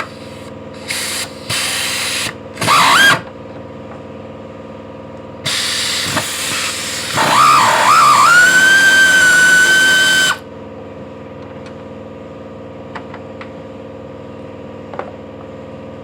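Handheld power tool unbolting fasteners: three short bursts in the first few seconds, then a longer run about halfway through whose pitch wavers before settling into a steady whine, then it stops.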